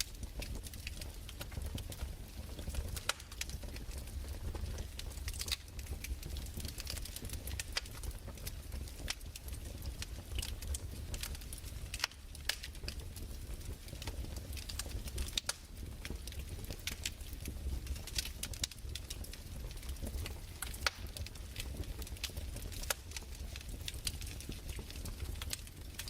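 Crackling wood fire: irregular small pops and snaps over a steady low rumble.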